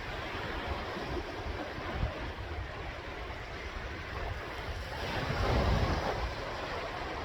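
Sea waves breaking and washing ashore: a steady rush of surf, with one wave swelling louder about five seconds in.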